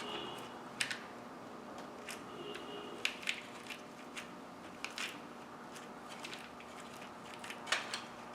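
Scattered clicks and light knocks of hand tools working on the fuel line fittings of an engine, over a steady faint hum.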